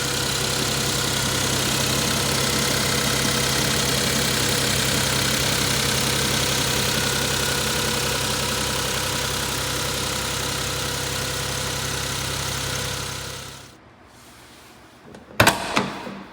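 1989 Suzuki Carry kei truck's engine idling steadily, then switched off about three-quarters of the way through, the sound dying away within half a second. A few sharp clicks or knocks follow near the end.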